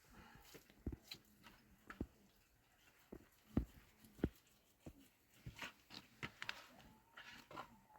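Irregular knocks, taps and clicks, with two louder low thuds a little past the middle.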